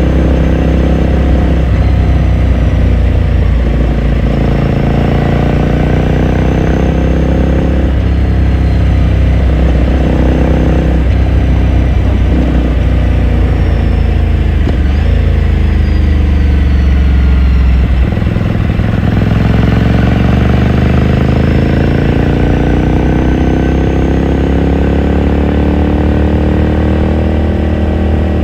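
2018 Ducati Scrambler Sixty2's 399 cc air-cooled L-twin heard onboard while riding, its exhaust note rising and falling with the throttle. The pitch winds down through the middle, drops suddenly about eighteen seconds in, then climbs steadily to the end.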